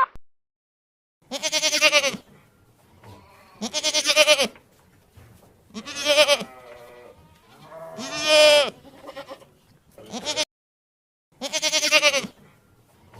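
A goat bleating six times, about every two seconds, each call a wavering, quavering bleat and one of them short.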